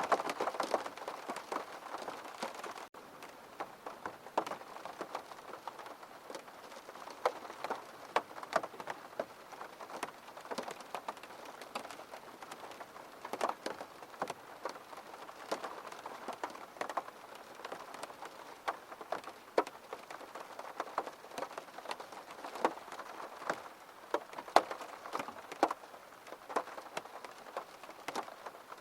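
Rain falling, with many distinct drops ticking on a surface over a steady hiss. It is denser for the first few seconds, then cuts out for an instant about three seconds in and continues lighter, with scattered sharper drops.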